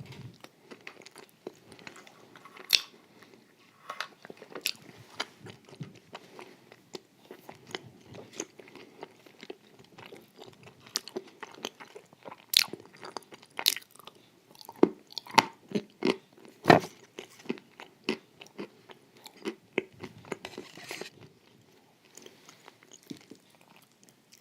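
Close-miked chewing and crunching of a crunchy wafer dessert with cream: irregular sharp crunches and wet mouth clicks, loudest and most frequent a little past the middle.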